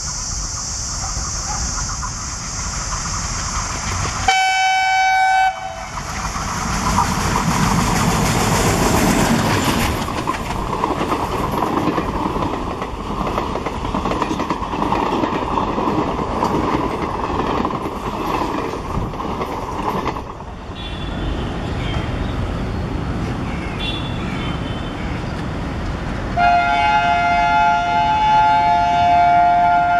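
Indian Railways ALCO diesel locomotive and its train: a short horn blast about four seconds in, then the rumble and wheel clatter of the train running past, easing off around two-thirds through. Near the end the horn sounds again in one long, loud blast.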